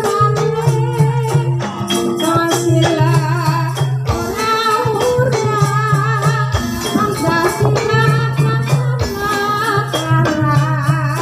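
Live ebeg dance accompaniment music: a singer's wavering melody over gamelan-style percussion, with a shaken rattle and a low tone that keeps stopping and starting.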